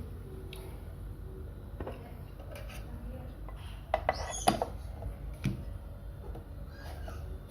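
Light knocks and clinks of small objects being handled, with a cluster of sharp clinks about four seconds in, over a steady low hum.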